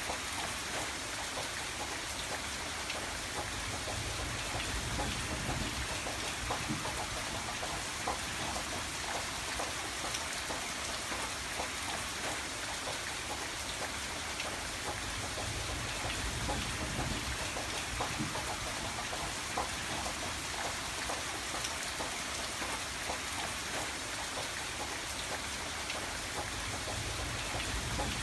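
Steady rainfall, a continuous hiss made of many separate drop strikes, with a low rumble swelling and fading every few seconds.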